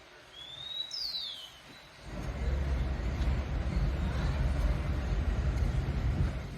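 A short high chirp made of a rising and a falling glide about a second in, then a steady low rumble from about two seconds in.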